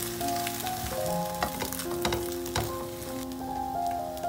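Egg and tortilla sizzling as they fry in a nonstick pan, with a few sharp scrapes and taps of a spatula as the wrap is flipped. Calm piano music plays underneath.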